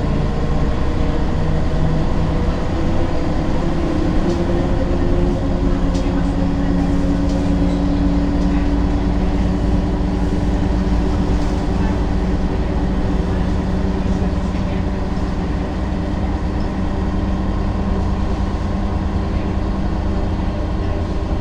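Ikarus 280 articulated bus running with its diesel engine droning steadily; the engine's pitch rises slightly about four seconds in and then holds, with a few light rattles.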